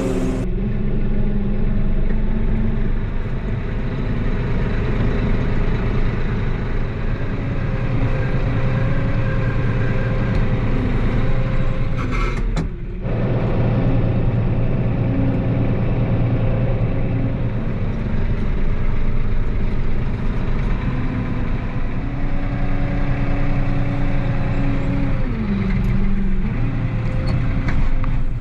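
Engine of a bucket loader running steadily while it scoops and pushes snow, its pitch stepping up and down as it works, with a brief drop about twelve seconds in.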